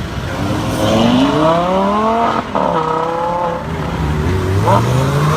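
A supercar's engine accelerating hard, rising in pitch. It breaks off sharply for an upshift about two and a half seconds in, drops, then climbs again near the end.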